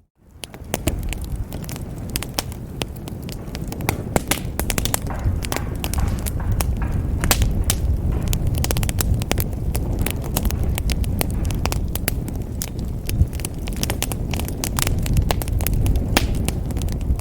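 Wood fire crackling in a fireplace: a steady low rumble of flame with frequent sharp, irregular pops and snaps. A brief gap of silence at the very start, after which the sound fades back in.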